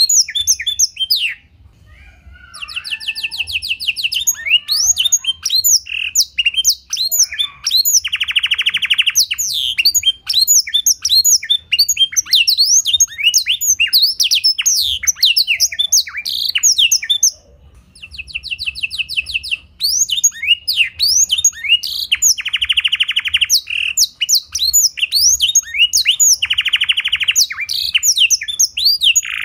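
Domestic canary singing a long, fast song filled with blackthroat (black-throated canary) phrases: rapid trills, buzzy rolls and sweeping chirps, breaking off briefly near the start and again a little past halfway.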